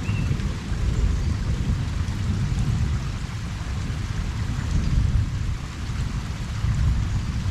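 Steady rain falling on a pond, with a continuous low rumble of distant thunder beneath it.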